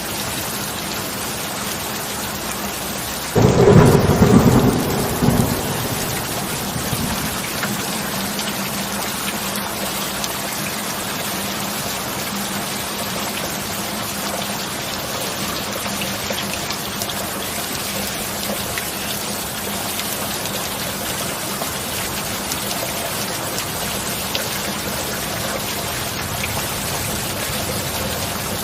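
Steady heavy rain, with a single sudden thunderclap about three seconds in that rumbles for two or three seconds before fading back into the rain.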